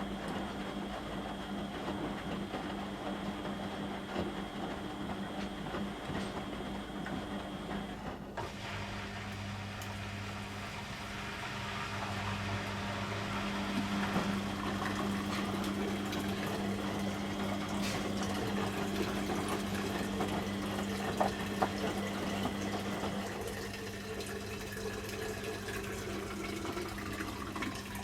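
Beko WM6255W washing machine running mid-cycle: a steady motor hum with water sounds in the drum. About eight seconds in, a lower hum starts up alongside it.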